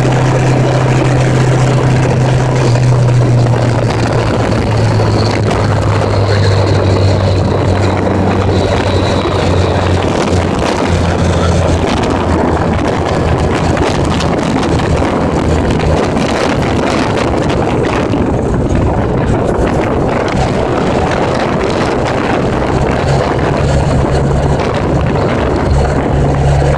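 1980s Honda Gold Wing motorcycle engine running on the road under heavy wind rush on the microphone. The engine note drops in two steps over the first half and rises again near the end.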